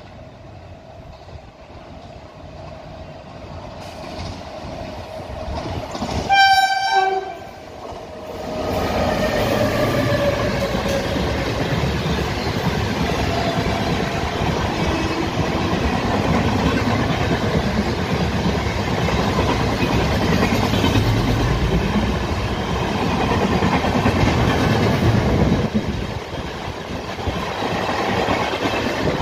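WAP-7 electric locomotive hauling an express approaches at speed and sounds one horn blast, about a second long, some six seconds in. The coaches then run past with loud, steady rail noise and wheels clattering over the rail joints.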